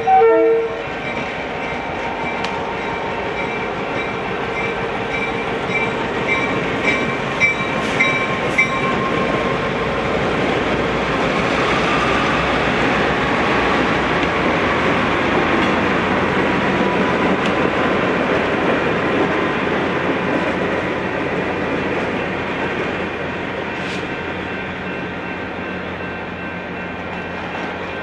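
A short train horn blast right at the start, then a passing train, its noise swelling to its loudest about halfway through and easing off toward the end. A bell rings in quick repeated strokes for a few seconds, starting about six seconds in.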